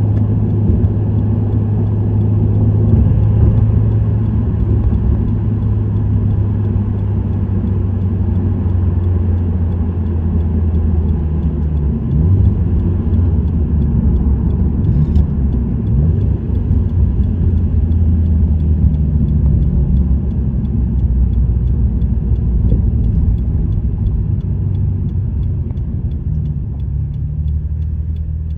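Subaru WRX STI's turbocharged 2.0-litre flat-four engine and STI Performance exhaust droning steadily while driving, with a few brief changes in engine pitch about halfway through. It gets slightly quieter near the end.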